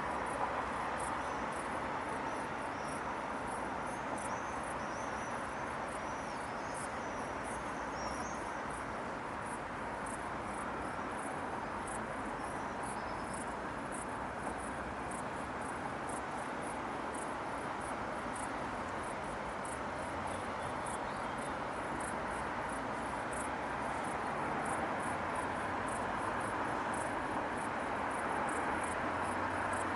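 Steady distant city traffic hum, with a constant high chirping of insects. Faint bird twittering comes and goes in the first half.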